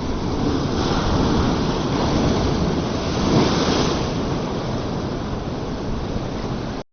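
Sea waves surging, swelling to a peak about halfway through and then cutting off abruptly near the end.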